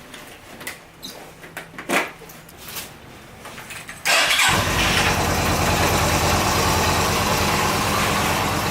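A car engine starts about four seconds in and then runs steadily. Before it, a few light clicks and knocks are heard.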